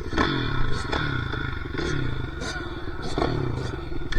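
Dirt bike engine running and revving, its pitch rising and falling several times.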